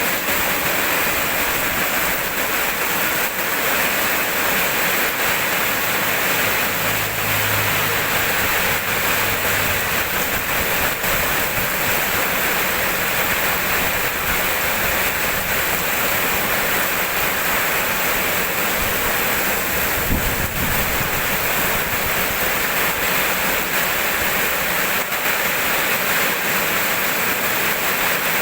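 Steady rainfall, an even hiss of falling rain.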